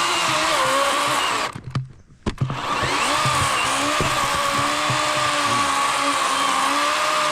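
A WORX 40-volt battery electric chainsaw with an 18-inch Oregon bar running at speed, with the steady whine of its motor and chain. The saw stops for about a second, roughly a second and a half in, then starts again and runs on steadily.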